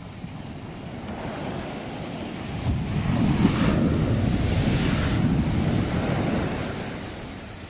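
Ocean surf: one wave swells, is loudest from about three seconds in, then washes out and fades near the end, with a deep rumble underneath.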